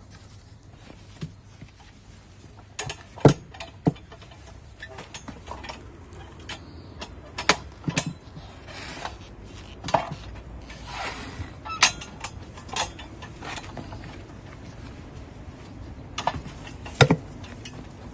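Irregular metallic clanks and knocks of tyre-changing work on a manual tyre changer: the bar and levers striking the steel wheel rim and the changer's frame. A short scraping rub comes near the middle.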